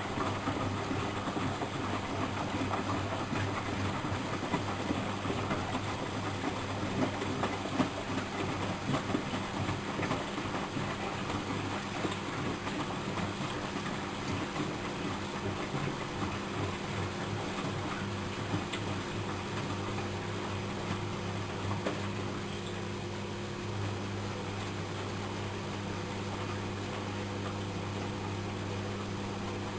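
Miele Professional WS 5105-C washing machine running, its motor giving a steady hum under a rushing, lightly clattering drum noise. About two-thirds of the way through, the sound turns smoother and a little quieter.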